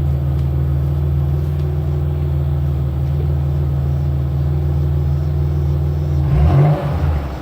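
A 1994 Oldsmobile Cutlass Supreme's 3.4-litre DOHC V6 (LQ1) idling steadily through its rusty factory exhaust. About six seconds in there is a single short blip of the throttle: the note rises, then drops straight back to idle.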